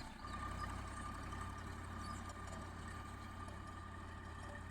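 Swaraj 735 FE tractor's diesel engine running steadily, a low hum with a thin steady whine above it.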